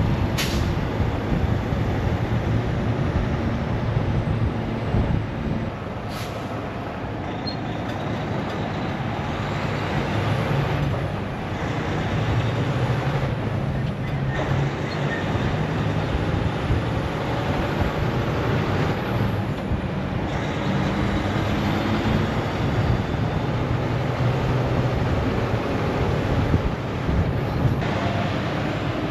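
Semi truck's diesel engine running while driving, with road and wind noise; the engine's hum shifts in pitch a few times.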